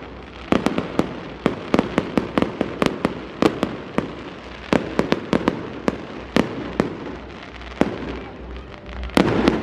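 Fireworks display: aerial shells bursting in quick, irregular bangs over a crackling wash, packed closely in the first few seconds, then more spaced out, with a loud rapid cluster of bangs near the end.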